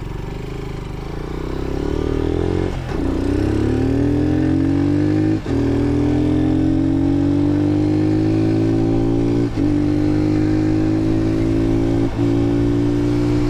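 Lifan KP Mini 150's single-cylinder 150cc engine accelerating up through the gears, heard from the rider's seat: the engine note climbs in each gear and breaks briefly four times as the rider shifts up, each gear climbing more slowly than the last.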